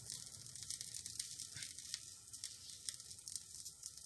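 Squid, chive and carrot batter pancake (bánh bột chiên) sizzling quietly in a tablespoon of oil in a nonstick frying pan over low heat, with faint scattered crackles, as its second side fries crisp.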